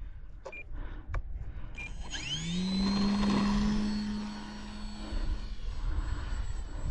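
The E-flite Valiant's electric motor and propeller spool up about two seconds in, the hum and a high whine rising quickly in pitch and then holding steady as the plane sets off, easing off a little past the middle. Before that there are two short beeps and a click.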